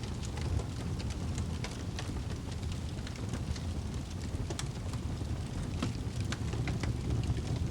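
Wood fire burning in a fireplace: a steady low rumble of flames with irregular crackles and pops from the burning wood.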